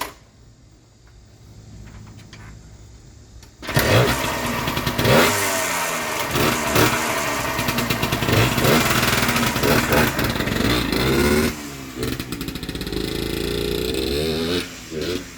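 Yamaha DT100 two-stroke single-cylinder dirt bike engine idling low, then about four seconds in it is revved hard, its pitch rising and falling again and again as the bike is ridden, easing to a quieter, steadier run near the end.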